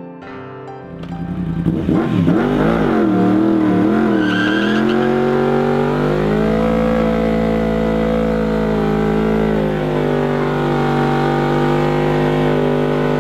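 Yamaha R1's inline-four engine through an Akrapovic exhaust, revved up and down in quick blips and then held at steady high revs through a burnout, with tyre squeal.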